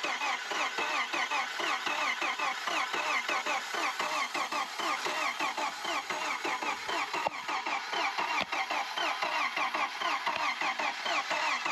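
1993 Jeep Wrangler YJ engine cranking on its starter in one long, unbroken crank, turning over in a fast, even rhythm without catching. The fuel line is disconnected to check fuel delivery, and no fuel comes through.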